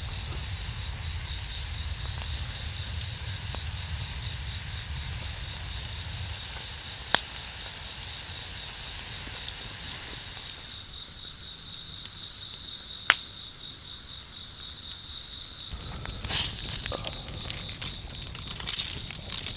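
Outdoor campfire ambience: a steady high chirring of insects, with two sharp crackling pops from the fire. A cluster of clicks and knocks comes near the end.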